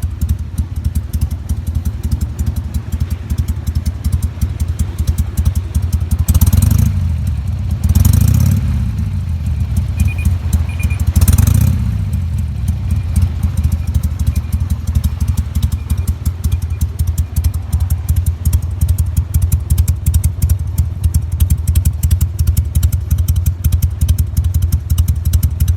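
Harley-Davidson Sportster's V-twin idling low and lumpy through Screamin' Eagle II mufflers, blipped three times, about six, eight and eleven seconds in, each rev falling back to idle.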